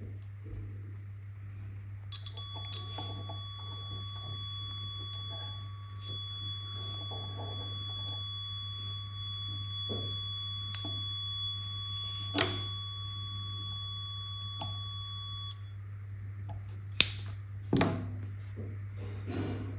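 A steady high electronic beep tone held for about thirteen seconds over a low hum, with small handling clicks and knocks and a few sharper clicks near the end.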